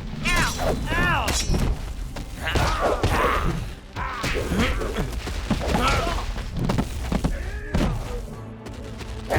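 Cartoon fight sound effects: thuds and impacts mixed with wordless shouts and grunts over background music.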